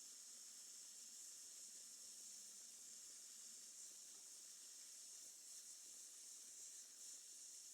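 Campfire burning: a faint, steady high hiss with a few faint crackles.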